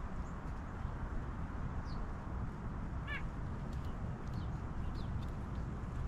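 Wild birds calling faintly, with a few short high chirps and a brief nasal call about three seconds in, over a steady low background rumble.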